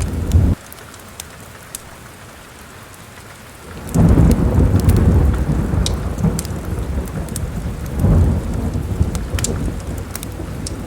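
Steady rain with rolling thunder, mixed with the crackle of a fireplace fire. The thunder cuts off abruptly about half a second in, leaving rain hiss and crackles. A new roll of thunder rises around four seconds in and swells again near eight seconds.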